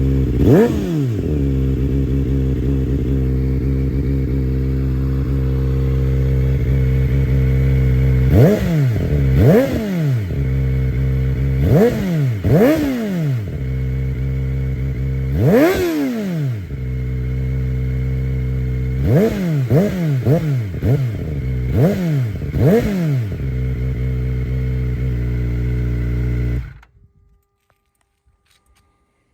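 A 2024 Kawasaki ZX-4RR's 399 cc inline-four idles through a full Akrapovic racing-line exhaust and is blipped about eleven times in short clusters, each rev rising sharply and falling straight back to idle; the sound is rowdy. Near the end the engine is switched off and cuts out suddenly.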